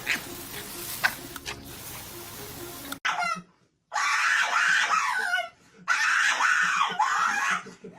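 Three long, loud, high-pitched screaming cries whose pitch bends up and down, following a short burst of music that cuts off abruptly about three seconds in.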